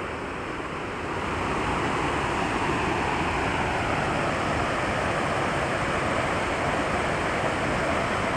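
Wind blowing steadily, growing a little stronger about a second in.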